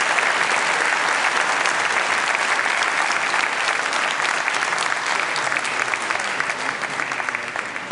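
Audience applauding, thick clapping that thins and dies away toward the end.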